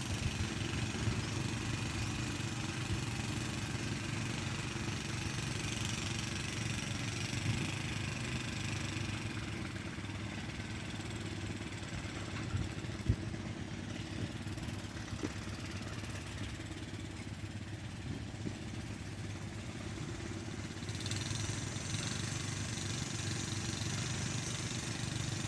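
Small engine of a mesin cangkul (walk-behind mini tiller) running steadily at an even speed.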